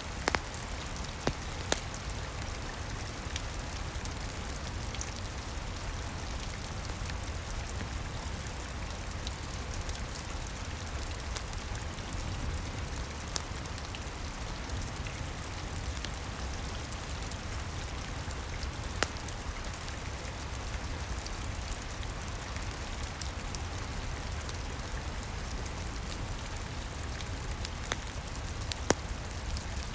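Steady rain, with a few sharp pops scattered through it from a crackling wood fire.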